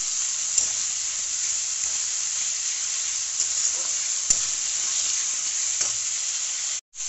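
Masala paste and potato pieces sizzling in hot oil in a kadai, being sautéed down, with a metal spatula stirring and clicking against the pan a few times. The sound breaks off for a moment near the end.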